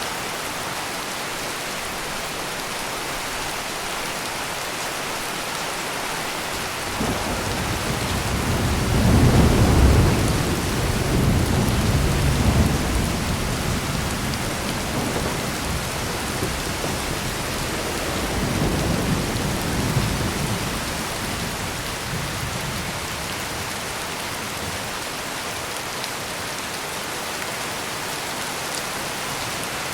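Heavy rain pouring steadily, with a long roll of thunder that builds from about seven seconds in, peaks around ten seconds and dies away, followed by a smaller rumble near twenty seconds.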